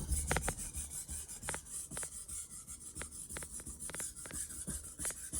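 Knife blade being stroked back and forth across a Stratton Pro 2000 sharpening stone: a gritty scraping rasp in a run of short, irregular strokes, roughly two a second.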